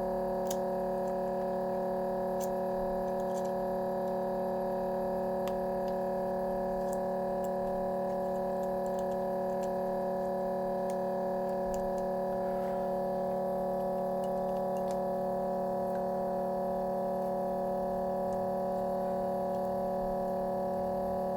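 A steady hum of several fixed tones at an even level, with a few faint, scattered clicks over it.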